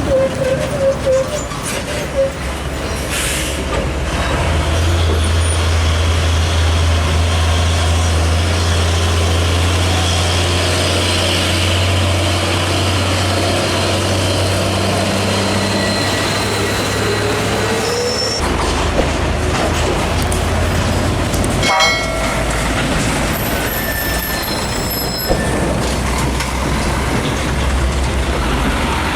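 Heavy trucks passing close by on the road, their diesel engines a loud, low, steady drone. The drone changes about two-thirds of the way through as the next truck comes by, and a sharp click follows a few seconds later.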